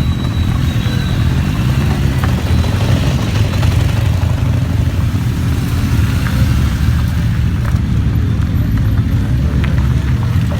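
Motorcycle engines running as a group of bikes rides in, a steady low rumble.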